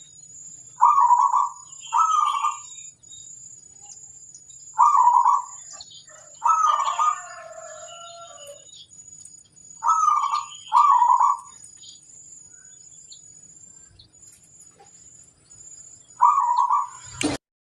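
Zebra dove (perkutut) cooing: short staccato coo phrases near 1 kHz, repeated in ones and twos every few seconds, with a longer, more complex phrase about six and a half seconds in. A sharp knock shortly before the end.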